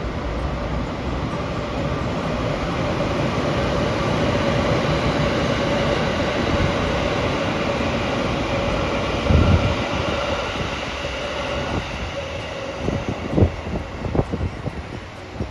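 A train running past: a steady rumble with a held whine that swells and then fades, and several sharp knocks in the second half.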